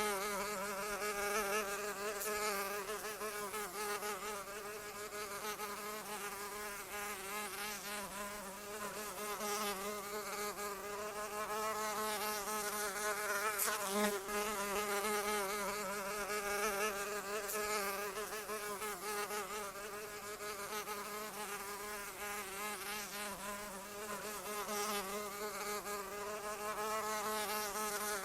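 A flying insect buzzing continuously, its pitch wavering up and down and its loudness swelling and fading as it flies about.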